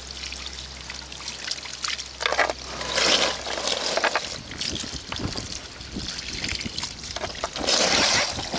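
Hose water spraying and trickling over a mud-covered RC truck, coming in surges about two seconds in and again near the end. A low steady hum underneath stops about four seconds in.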